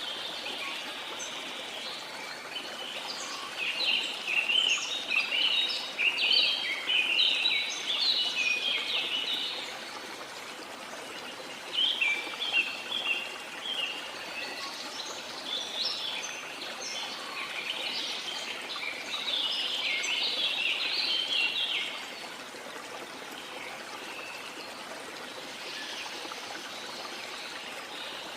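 Steady rush of falling water with birds chirping over it in two long flurries of rapid high calls, one starting about three seconds in and the other from about twelve seconds, dying away near twenty-two seconds.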